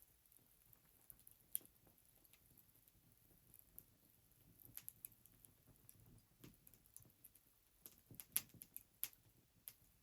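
Fire crackling: faint, irregular small pops and snaps, with sharper pops about one and a half seconds in and about eight seconds in.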